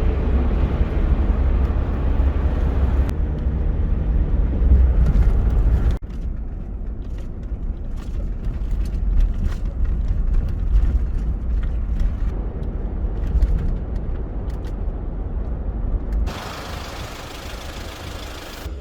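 A vehicle driving, with a steady low engine and road rumble. The sound changes abruptly about 3, 6 and 16 seconds in, and gets quieter after the last change.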